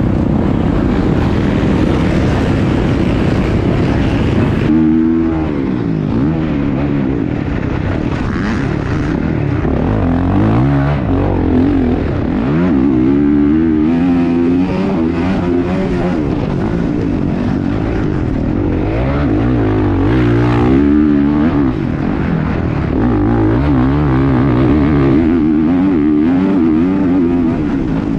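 Dirt bike engines on a motocross track, revving hard with the pitch rising and falling over and over through throttle and gear changes. The sound shifts abruptly about five seconds in.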